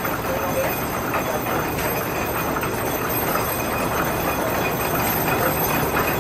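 Antique belt-and-pulley-driven machinery running: a steady mechanical noise with faint irregular ticks.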